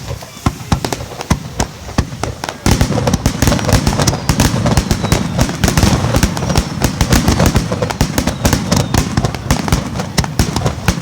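Fireworks display: aerial shells bursting in quick separate bangs, then, about two and a half seconds in, a dense barrage of overlapping booms and crackle that keeps going.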